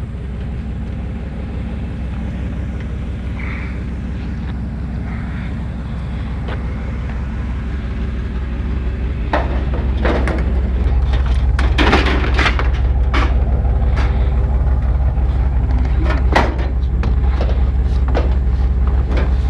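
Truck running on the road, a steady low drone that grows louder about ten seconds in, with knocks and rattles from about nine seconds on.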